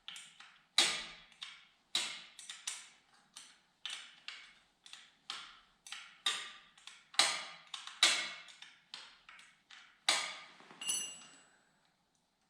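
Hand tools clicking and clinking against metal while a pit bike carburetor is unbolted: irregular sharp knocks, about two or three a second, with one ringing metallic clink near the end.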